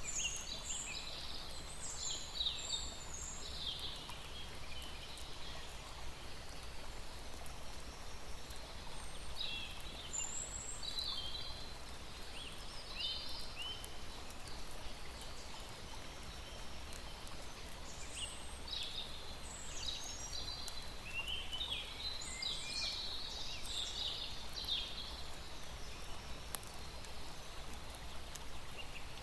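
Small birds chirping in scattered clusters of short, high calls over a steady background hiss.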